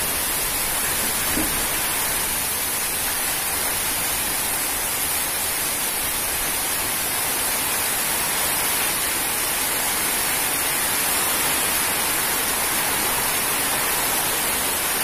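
Heavy rain pouring down in a strong windstorm: a steady, unbroken rush.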